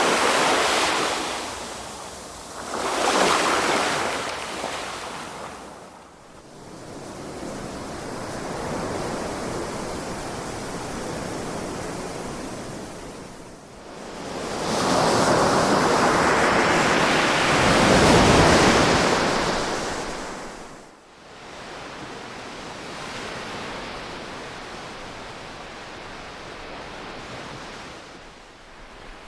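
Ocean waves surging and washing in slow swells: two swells in the first few seconds, a longer softer wash, then the loudest surge a little past the middle before it eases into a quieter wash.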